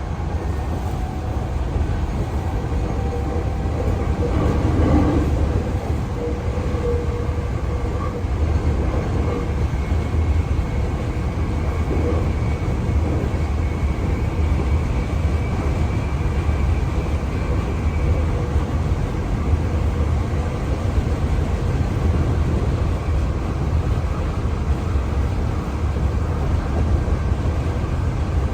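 Hankyu Kyoto Line commuter train running between stations, heard from inside the car: a steady rumble of wheels on the track, with a faint high whine for a while in the middle.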